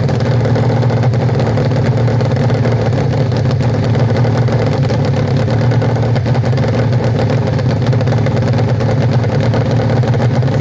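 Nitro-fuelled hill-climb motorcycle engine, an 1100 in a dirt-bike frame, running loud and steady at idle without revving.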